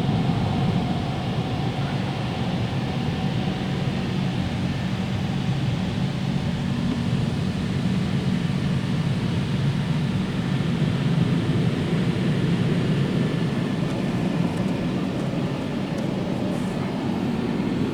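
Drying blowers of an Istobal M12 rollover car wash running steadily, heard from inside the car as a constant low hum with an airy hiss above it.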